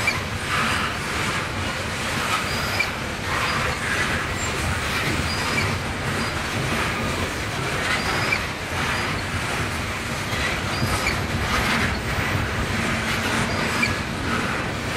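Coal hopper cars rolling past on the rails: a steady rumble and rattle of wheels and car bodies, with short high wheel squeals every few seconds.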